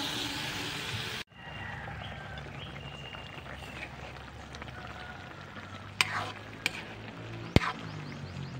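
Squash and okra frying in oil in a wok with a loud, even sizzle that cuts off suddenly about a second in. The vegetables then simmer more quietly in added liquid while a spatula stirs them, knocking sharply against the wok three or four times near the end.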